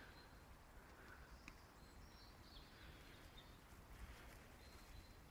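Near silence: quiet woodland ambience with faint, scattered high bird chirps.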